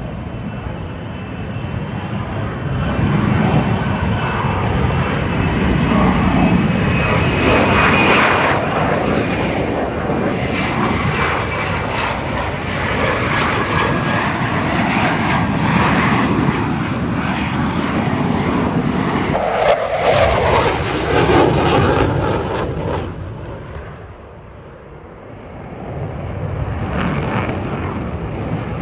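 Fighter jet engine roar during an air show display, swelling loud as the jet passes, with a faint high whine over the rumble. The roar drops away about three-quarters of the way through, then builds again.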